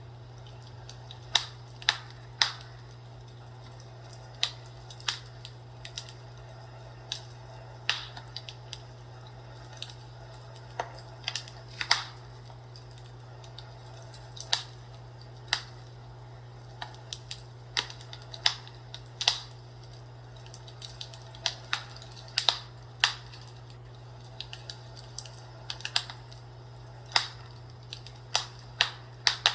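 Burning wood crackling in a fireplace: irregular sharp pops and snaps, several a second at times, a few much louder, over a steady low hum.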